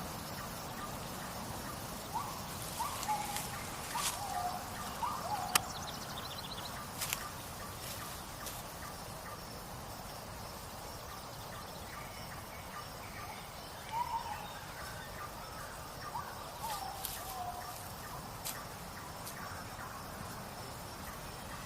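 Bird calls made of short, falling notes that come in clusters near the start and again about two-thirds of the way through, over a steady hiss, with a few sharp clicks.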